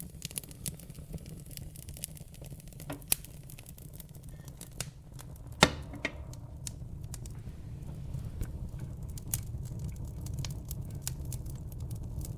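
A fire in a fireplace crackling: irregular sharp snaps and pops over a low, steady rumble, with one loud pop a little over halfway through.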